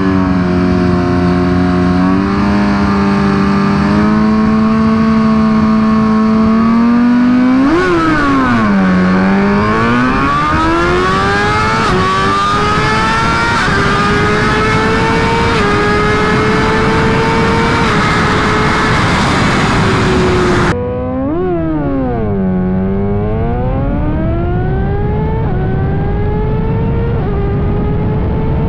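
Suzuki GSX-R1000 inline-four engine held at steady high revs on the start line, then launched: the revs flare and sag as the clutch bites, then climb in rising sweeps broken by quick upshifts. About two-thirds of the way through the sound cuts to a second launch with the same flare, sag and stepped climb through the gears.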